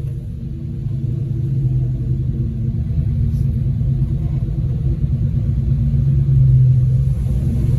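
Car engine running with a steady, deep rumble that slowly grows louder.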